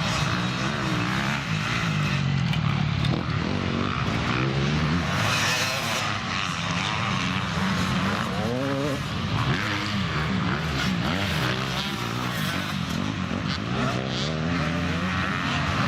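Several motocross bikes' engines revving on the track, their pitch repeatedly climbing and dropping as the riders open and close the throttle and change gear.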